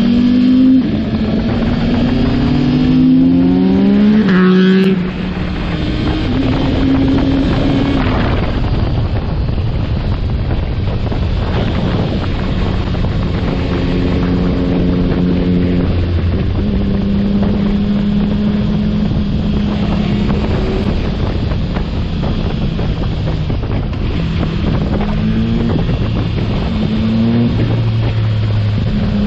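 Yamaha MT-09 SP's inline three-cylinder engine through a Yoshimura AT2 full exhaust, accelerating with a rising pitch, easing off suddenly about five seconds in, then cruising at steady revs under wind noise before pulling up in pitch again near the end.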